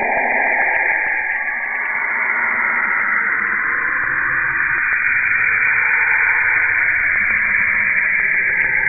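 Cassini spacecraft's recording of Saturn's radio emissions, converted to sound: a loud, steady static-like hiss with broad tones slowly sweeping up and down in pitch. A low rumble builds from about four seconds in.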